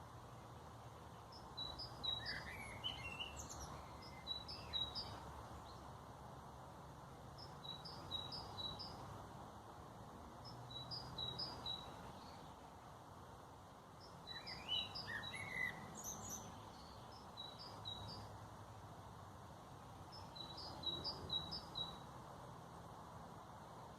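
A songbird repeating a short phrase of three or four high notes about every three seconds, with a second bird's brief gliding calls twice. A steady low rumble runs underneath.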